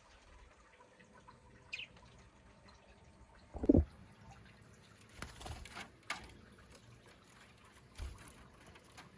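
Food-preparation handling sounds with some liquid trickling or pouring. There is one loud knock about a third of the way in and a few lighter clicks and knocks later.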